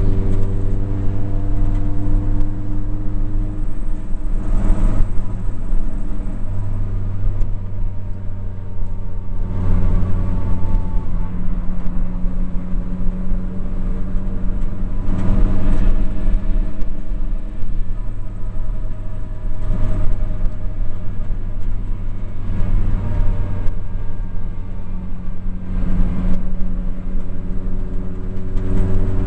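Rally car's engine and road noise heard from inside its bare cabin while driving on tarmac, the engine note rising and falling a few times with throttle and speed.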